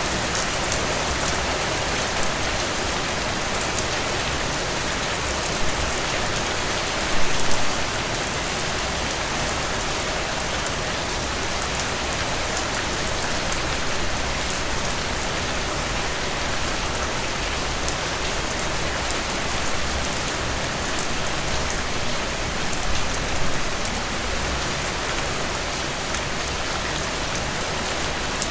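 Steady rainfall: a dense, even hiss of rain with many fine drop ticks, briefly louder about seven seconds in and again near the end.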